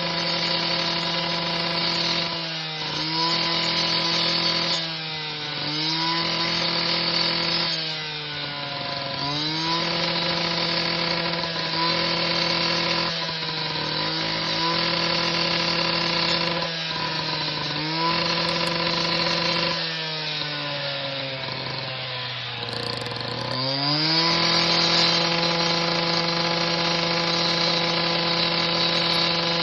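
Power grinder running at high speed, its whine dropping in pitch again and again as it is pressed into the work and climbing back each time it is eased off. Near the end it bogs down longer and deeper before spinning back up to full speed.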